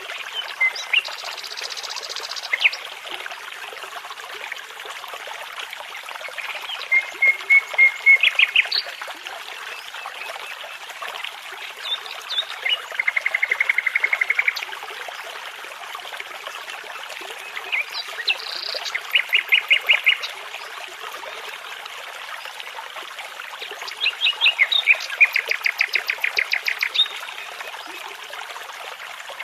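Nightingale singing in separate phrases of rapid repeated notes and whistles, a few seconds apart, over the steady babble of a brook.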